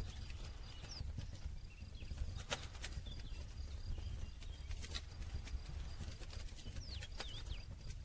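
Campfire crackling: irregular sharp pops and snaps from burning wood over a steady low rumble of flames, with a few faint high chirps about a second in and again near the end.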